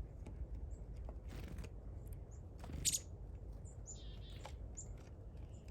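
Small songbirds giving short high chirps, and about four seconds in a buzzy falling call, over a steady low rumble of wind on the microphone. A sharp rustle comes near the three-second mark.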